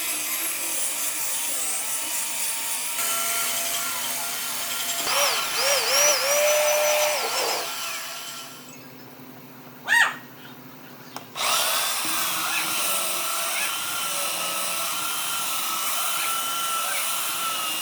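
Handheld electric power tool running, working wood, its motor pitch dipping and recovering under load. It drops away for about three seconds around the middle, with one short loud burst, then spins back up and runs steadily.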